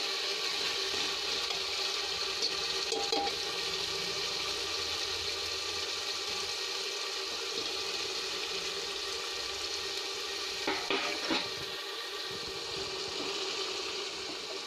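Onion and ginger-garlic paste sizzling steadily in hot oil in a pressure cooker, with a few short clicks about eleven seconds in.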